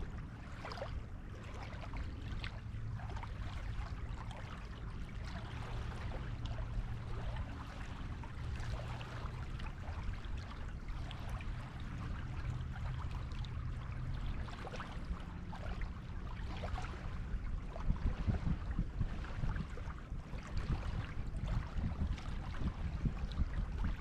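Waves washing onto a beach: a steady wash of surf with fizzing and small splashes. A low rumble underneath grows stronger and more uneven in the last few seconds.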